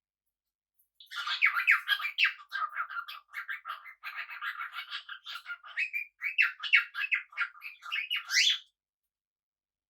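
Small pet parrots chattering: a fast, continuous run of short chirps and squawks that starts about a second in and stops shortly before the end.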